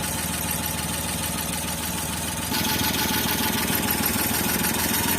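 A Suzuki F6A 12-valve three-cylinder engine idling steadily after a head rebuild with new valves and valve guides. The idle is set low, which makes the engine rock. The sound gets louder about halfway through.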